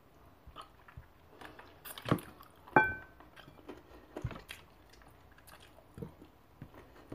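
Close-up eating sounds of chicken feet being bitten and chewed by hand: scattered wet clicks and smacks, loudest about two and three seconds in, where one sharp click rings briefly.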